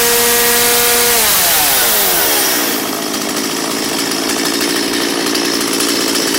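Stihl MS170 two-stroke chainsaw held at high revs, then easing off over about two seconds from a second in and settling into a steady idle. It runs and idles properly after sitting unused for a year.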